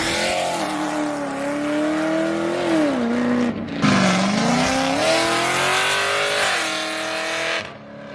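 Car engine at hard throttle, its pitch climbing, dropping away about three seconds in, then climbing again before cutting off suddenly near the end.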